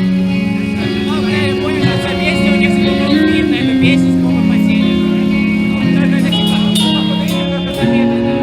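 Live band playing, recorded from the audience: ringing guitar chords changing every second or so, with a voice singing over them.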